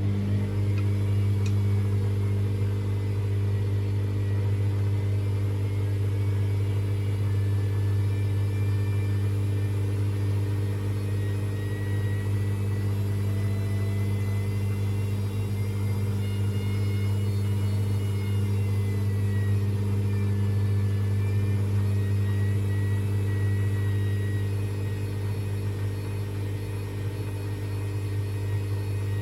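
AEG Lavamat washing machine running with a steady deep hum and a thin motor whine held at a constant speed. Near the end the pitch starts to climb as the machine speeds up.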